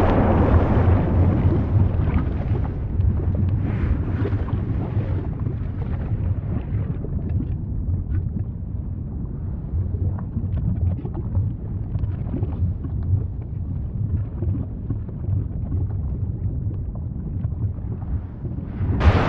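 Volcano rumbling: a continuous low roar with scattered faint crackles, swelling into a louder, hissing burst near the end.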